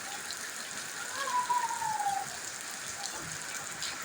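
Steady rain falling, as the rain eases off. About a second in, a single whistle-like tone slides down in pitch for about a second.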